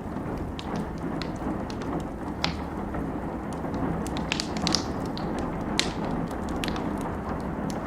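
A wood fire crackling, with irregular sharp pops and snaps, several louder ones in the middle, over the steady hiss of falling rain.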